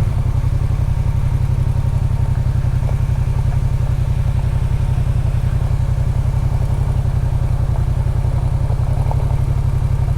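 Motorcycle engine running steadily, a deep, even pulsing rumble with no change in revs.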